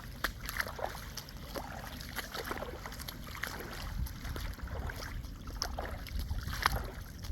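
Shallow storm-surge floodwater flowing across a road, with many small irregular splashes and trickles over a low steady rumble.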